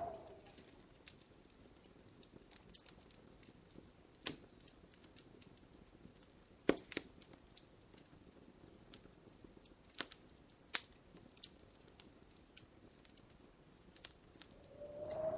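Wood fire crackling in a fireplace: a steady scatter of small sharp ticks, with a handful of louder pops. A brief low tone swells up near the end.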